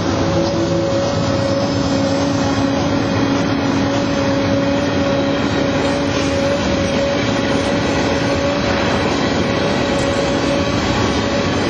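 An empty freight train of covered hopper cars rolling past close by: a steady noise of steel wheels on rail, with a steady high tone and a lower one running through it.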